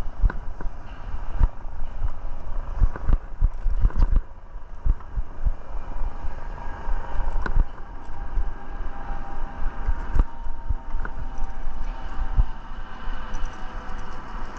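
Riding noise of an e-bike: low wind rumble on the helmet or handlebar camera and tyre noise, with frequent sharp knocks and rattles as the bike goes over bumps, thinning out after about four seconds.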